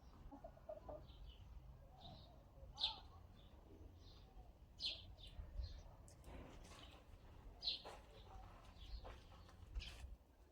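Birds chirping faintly: scattered short, high chirps, a few louder ones among them.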